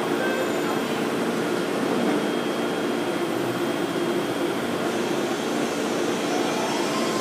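BART train standing at the platform, its onboard equipment giving a steady whirring hum.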